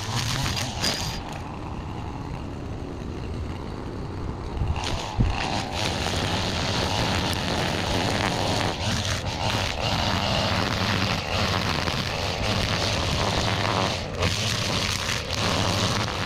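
Small gas engine of a yard tool running steadily as weeds are cleared, somewhat quieter for the first few seconds and louder from about five seconds in, with a short knock at that point.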